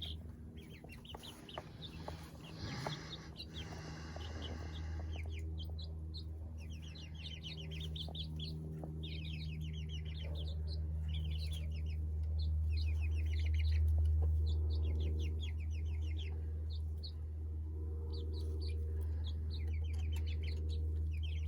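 Young chickens peeping, with runs of short high calls repeating throughout, over a steady low hum. A brief rustle sounds about two to four seconds in.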